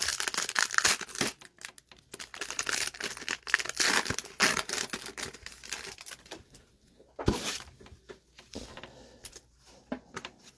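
Crinkling and rustling of a foil baseball card pack wrapper and cards being handled, dense through the first few seconds, then thinning to scattered clicks, with one sharper knock about seven seconds in.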